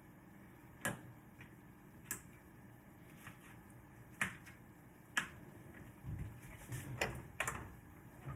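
Sharp clinks and taps of kitchen utensils and cookware, about six separate knocks spread over several seconds, with a low rumble between the last few.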